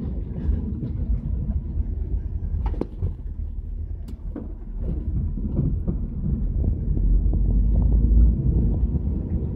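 1977 Camaro's 350 HO V8 running as the car drives, heard from the back seat as a deep exhaust rumble mixed with road noise through dual exhausts with the catalytic converters bypassed. It eases off around three to four seconds in and grows louder around seven to eight seconds in, with a few light clicks and rattles.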